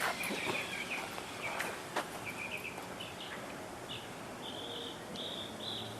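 Small birds chirping in short repeated phrases over a steady outdoor background hiss, with a couple of faint sharp clicks about a second and a half and two seconds in.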